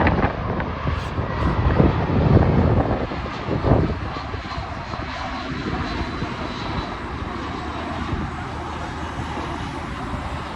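Jet engines of an Airbus airliner landing: loud and uneven for the first few seconds, then settling into a steady rumble with a faint high whine.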